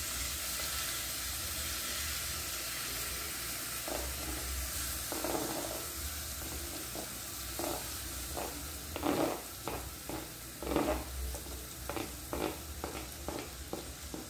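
Chopped onions sizzling as they fry in a pot, while a wooden spoon scrapes and knocks diced tomatoes off a plastic cutting board into the pan. The sizzle is steady; the scrapes and knocks come in short strokes from about four seconds in, quick and frequent in the second half.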